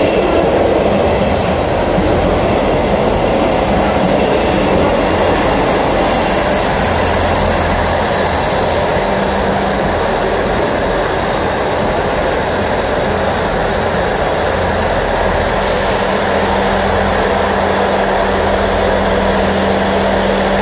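Passenger train running slowly along the platform and coming to a stop, with a steady rumble and a thin, high-pitched whine.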